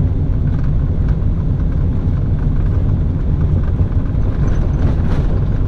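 Car driving, a steady low road and engine rumble.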